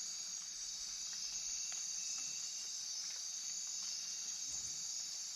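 Night chorus of rainforest insects, crickets and katydids: a steady, unbroken high-pitched trilling drone.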